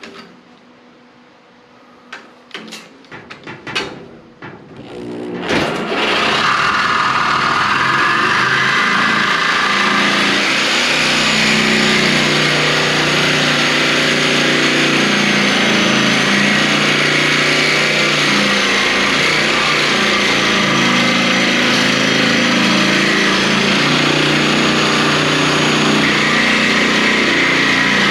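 Reciprocating saw (Sawzall) cutting through the car body's sheet steel, running steadily and loudly after a few knocks and taps at the start; the cut begins about five seconds in.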